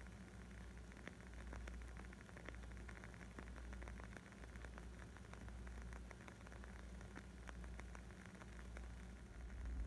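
Wood fire crackling: a dense, irregular scatter of small pops and snaps over a steady low rumble.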